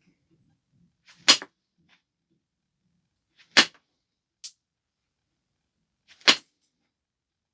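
Flintknapping on a stone biface: three sharp, ringing clicks, each a flake being taken off the edge, about two to three seconds apart, with a fainter click between the second and third.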